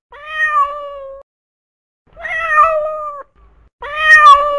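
Domestic cat meowing: three drawn-out meows, each about a second long, with short pauses between them.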